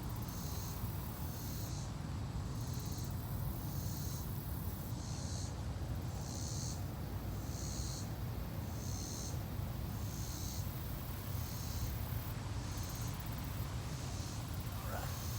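Insects calling in rhythmic high pulses about once a second, over a steady low rumble.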